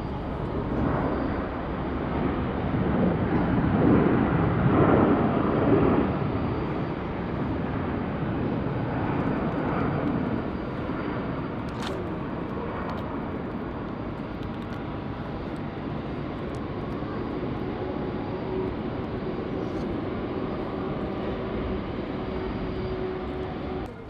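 Jet engines of a Skymark Airlines Boeing 737-800 landing: the rumble swells to its loudest about four to six seconds in, then settles into a steady, lower roar.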